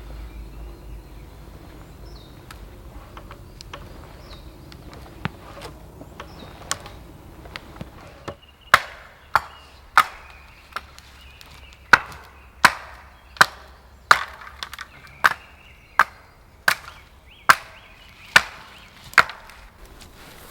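Wood being chopped with a blade: a few light taps, then from about eight seconds in a steady run of sharp chopping strikes, roughly one every 0.7 seconds.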